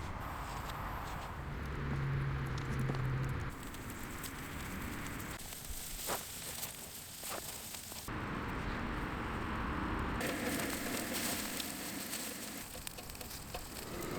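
Wood campfire crackling and popping under grilling yakitori skewers, with sizzling; the sound shifts at several edits. A low steady hum sounds for about two seconds near the start.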